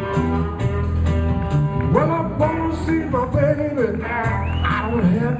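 Live blues band playing: electric guitar, bass and drum kit with a steady cymbal beat. A lead melody of sliding, bending notes comes in about two seconds in.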